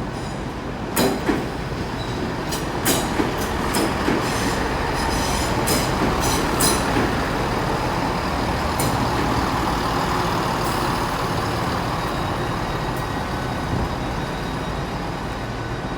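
Train moving along the platform track, its wheels clicking sharply over rail joints and points for the first several seconds, then a steady rolling rumble. A thin, steady high whine comes in during the second half.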